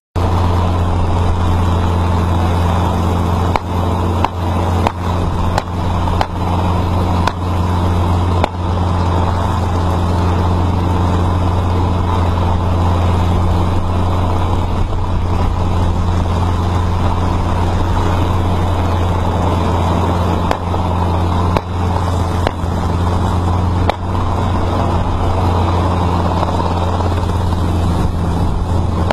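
Vehicle engine running with a steady low drone, broken by about a dozen sharp knocks in two clusters, one early and one past the middle.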